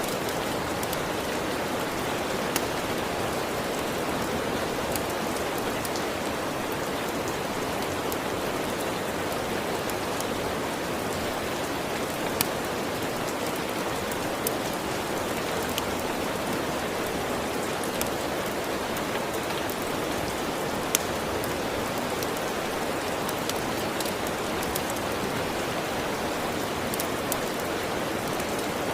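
Steady rain falling, with scattered sharp pops and clicks from a crackling wood fire every second or two, a few of them louder than the rain.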